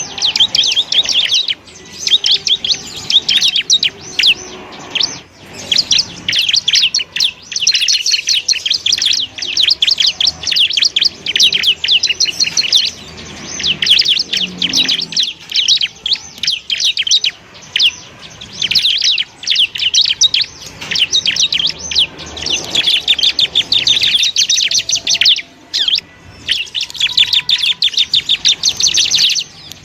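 Bar-winged prinia (ciblek) song: long runs of rapid, high, chattering chirps with brief pauses between runs.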